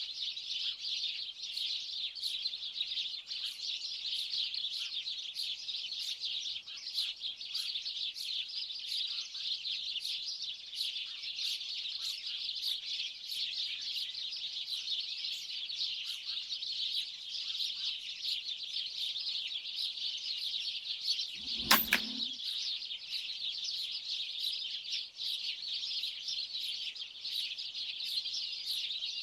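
A large flock of birds chirping and chattering continuously. A single sharp shot cuts through about three-quarters of the way in: an air rifle firing a 4.5 mm slug.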